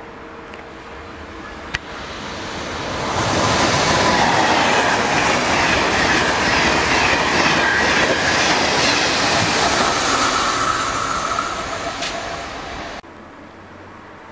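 TGV Duplex high-speed train passing close by at speed: a rush of wheels and air that builds over the first few seconds and stays loud for about nine seconds. It then cuts off suddenly near the end.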